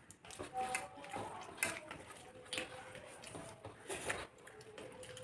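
A person eating a rice meal by hand: irregular chewing and mouth smacks with small clicks, a few louder ones about a second and a half in and near four seconds.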